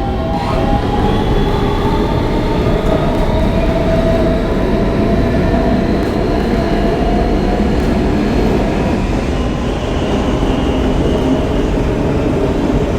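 R160B subway car with Siemens traction motors running at speed through the tunnel: a loud, steady rumble of wheels on rail with a motor whine held at a steady pitch.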